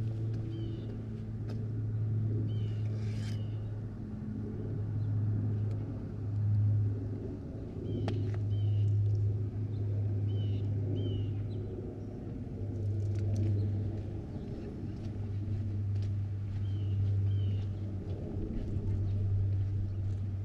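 Outdoor neighborhood ambience: a steady low hum that swells and eases, with a small bird chirping in short pairs of notes several times over it.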